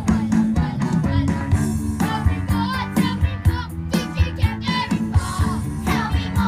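Upbeat 1950s-style rock-and-roll song with young voices singing over a steady beat.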